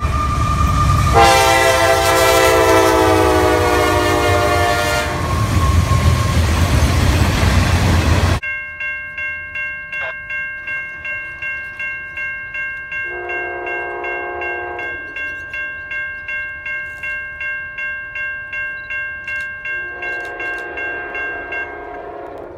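Freight train diesel locomotives running close by with a long horn blast, then a sudden cut to a railroad crossing bell ringing about twice a second. Over the bell, an approaching Amtrak P42DC locomotive's horn sounds twice, a couple of seconds each time.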